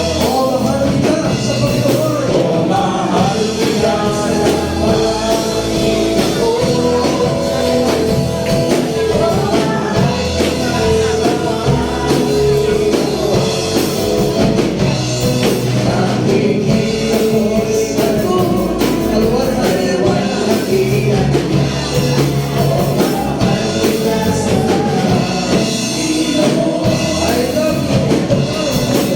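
Live gospel worship music: a band with a steady drum beat accompanying singing voices.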